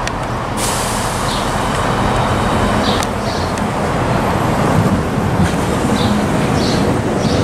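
Southeastern Class 395 Javelin high-speed electric train running along the platform close by: a steady rumble of wheels and running gear with a hiss over it, growing a little louder as it draws level.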